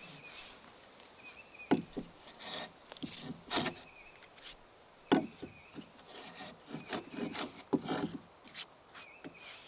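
Hand work on a large wooden timber: irregular rubbing and scraping strokes broken by sharp knocks, the loudest knocks about two, three and a half, five and eight seconds in.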